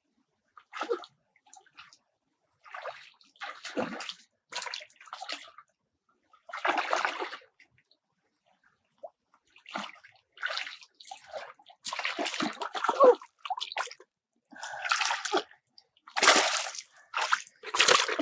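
Water sloshing and splashing in short, irregular bursts with quiet gaps between them.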